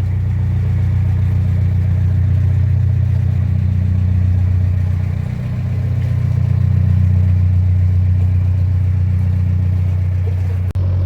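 Narrowboat engine running steadily with a low, even drone, dipping slightly about halfway through.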